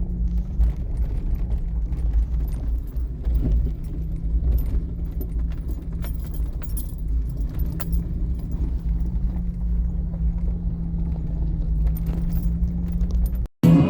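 Off-road vehicle running with a steady low engine drone, and many small clicks and jingles of loose items rattling. The sound cuts out abruptly near the end.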